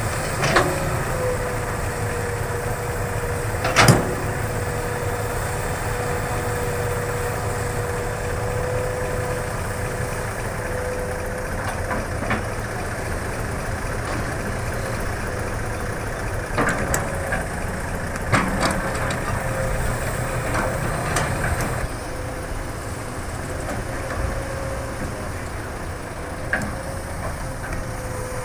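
Hitachi excavator's diesel engine running steadily while it digs and loads dirt, with a held steady tone over the engine drone. Sharp knocks come at scattered moments, the loudest about four seconds in.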